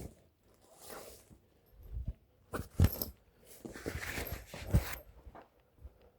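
Close handling noises: rustling and zip-like scraping. There are sharp knocks about three and five seconds in.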